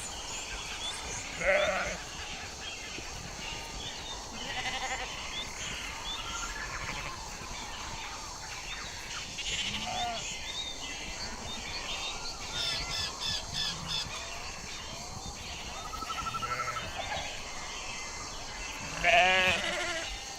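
Domestic sheep bleating: a loud bleat about a second and a half in and another near the end, with quieter bleats and calls in between.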